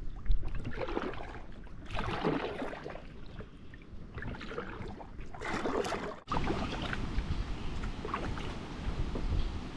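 Kayak on the water: a paddle swishing and splashing in irregular strokes every few seconds, over a steady low wind rumble on the microphone.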